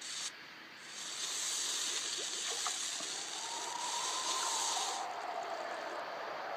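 A siren slowly wailing up and down, coming in about three seconds in, over a steady hiss that cuts off about five seconds in.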